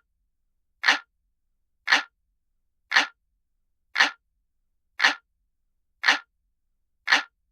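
Looped analog-clock ticking sound effect: single crisp ticks, about one per second, with silence between them.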